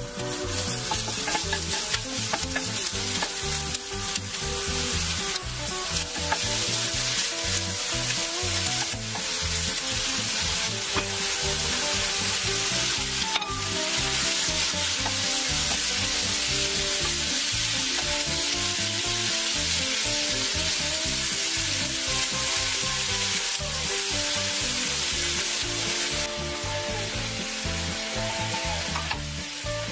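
Onions and pomegranate seeds sizzling in a frying pan, stirred with a wooden spatula that scrapes and clicks against the pan. Faint background music plays underneath.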